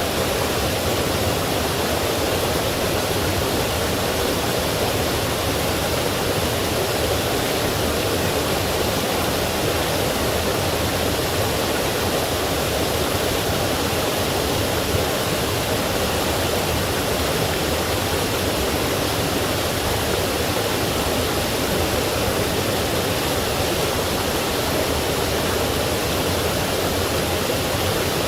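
Forest stream and small waterfall rushing steadily, a dense even hiss of flowing water with no breaks.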